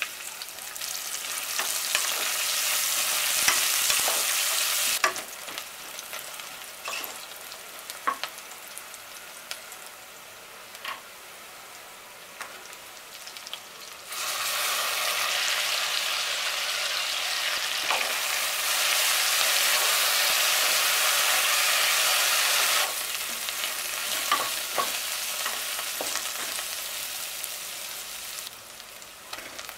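Food sizzling in hot oil in a cooking pot, with a spoon stirring and clicking against the pot. The sizzle starts suddenly and loud, dies down to a lower hiss with scattered clicks, surges loud again about halfway through, then eases off near the end.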